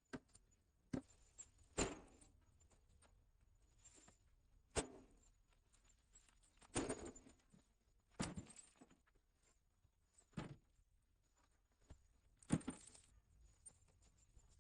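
Scattered light knocks and taps, about ten of them at irregular intervals, some with a short ringing tail.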